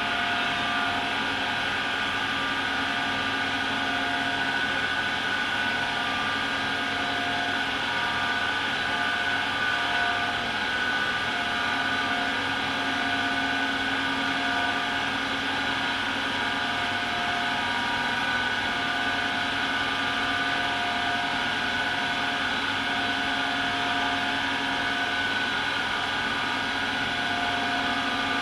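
AEG Lavamat Turbo washer-dryer spinning steadily at speed: a high motor whine over a hum that holds an even pitch throughout.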